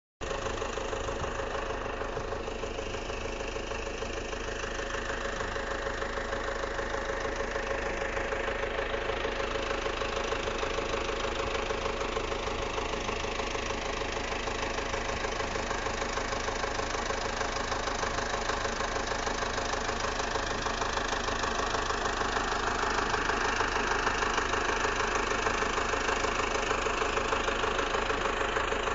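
An engine running steadily, growing slightly louder toward the end.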